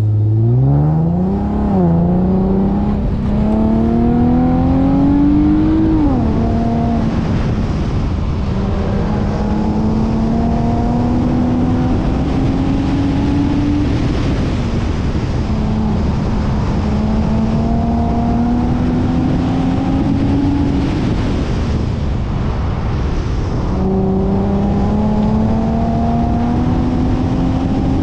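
Infiniti G37's 3.7-litre V6 under hard acceleration on an autocross run: the revs climb fast from the launch and drop back sharply about two and six seconds in as it shifts up, then rise slowly at high speed. Near the end the engine eases off for a few seconds and then pulls again, over steady road and wind noise.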